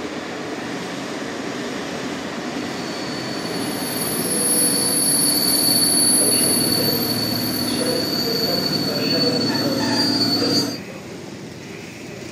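Locomotive-hauled passenger train pulling into the platform, its running gear rumbling louder as it comes in, with a steady high-pitched squeal as it slows. The sound drops away suddenly about two seconds before the end.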